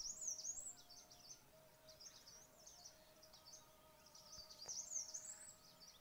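Faint chorus of small birds chirping and twittering, busiest right at the start and again about five seconds in, over a faint steady hum.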